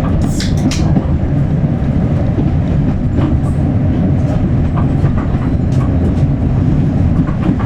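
Passenger carriage of a heritage train in motion, heard from inside: a steady low rumble of wheels running on the rails, with a few sharp clicks about half a second in and lighter ones later.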